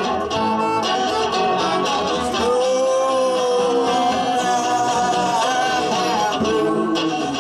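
Live band music: guitar playing under a held melodic line, with one long note sustained through the middle.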